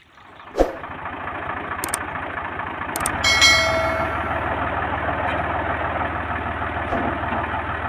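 A vehicle's engine running steadily, getting louder about three seconds in as a vehicle works its way along a flooded road. A sharp knock comes about half a second in, and a brief high ringing tone sounds just after three seconds.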